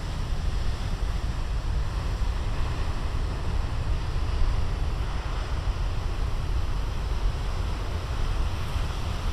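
Big ocean waves breaking and washing up a beach: a steady rush of surf over a heavy low rumble.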